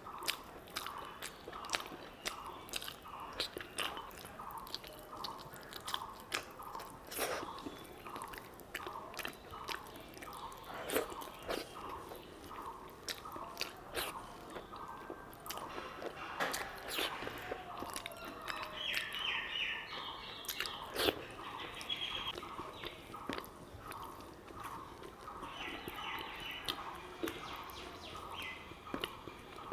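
Close-up chewing and mouth clicks of someone eating rice with curry, many short wet smacks through the stretch. Behind it a faint call repeats steadily about twice a second, with a few higher chirps in the second half.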